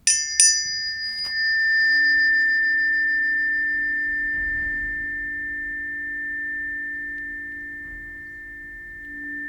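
Planetary tuning forks struck three times in the first second and a half, then ringing on as several steady pure tones, a high close-spaced pair over a lower hum, slowly fading.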